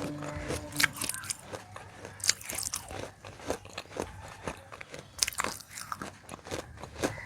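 Close-miked biting and chewing of roasted Nakumatt edible clay: irregular, crisp cracks and crunches as the hard pieces break between the teeth.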